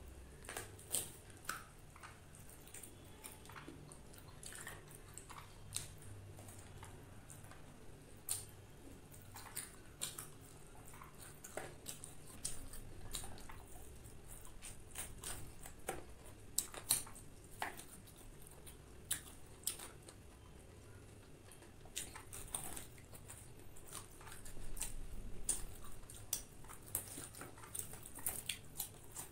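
A person chewing and biting homemade deep-fried chicken with a cornflour and oat coating, with irregular sharp crunches and mouth clicks.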